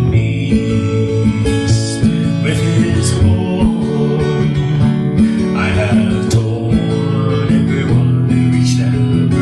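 Acoustic guitar strumming chords in an instrumental passage, with a strum every second or two.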